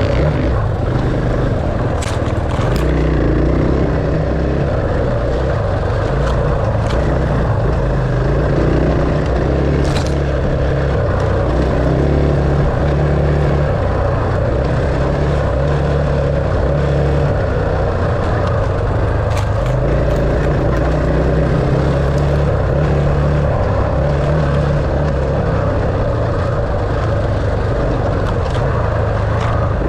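Enduro dirt bike engine running under way, its pitch stepping up and down as the throttle and gears change, with a few sharp clicks.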